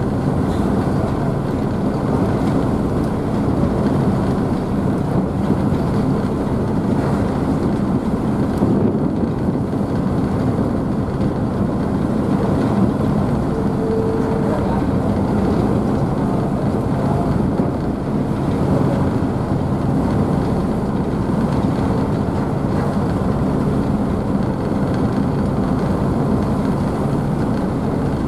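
Car ferry's engines running steadily, with the churning and splashing of the wake off the stern as a constant rushing noise.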